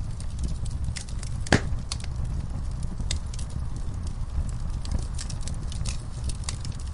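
Wood fire in an outdoor fireplace crackling: many small sharp pops and snaps over a low steady rumble, with one louder pop about a second and a half in.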